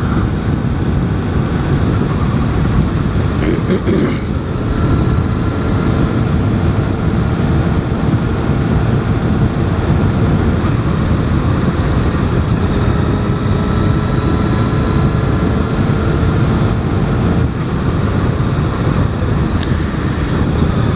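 A 600cc sportbike's engine running at a steady cruise, its hum holding nearly constant pitch, under heavy wind rush on the helmet microphone.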